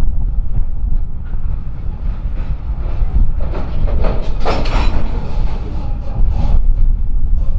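Freight train rolling past, its wheels clattering over the rail joints, louder and brighter for a few seconds in the middle, over a heavy low rumble of wind on the microphone.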